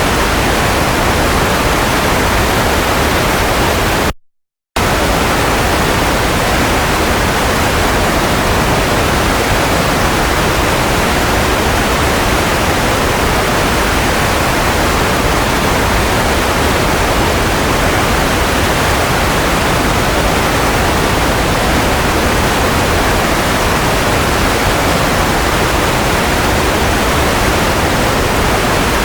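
Steady white noise for lulling a baby to sleep, an even hiss with no rhythm or tones. It cuts out completely for about half a second about four seconds in, then resumes unchanged.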